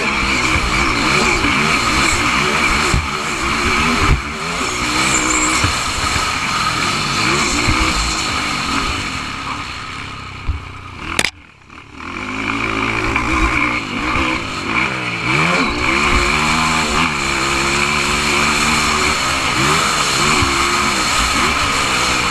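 Motocross bike engines revving up and dropping back again and again as the bikes race. The sound drops out briefly about halfway through.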